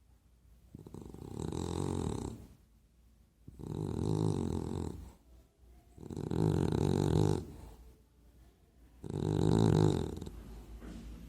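A dog snoring loudly in its sleep: four long snores about three seconds apart, with quiet breaths between them.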